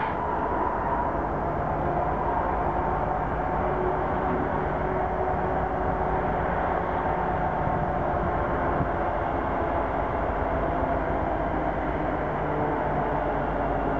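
Freight train rolling past, a steady, unbroken noise of wheels on rail with a few faint ringing tones over it.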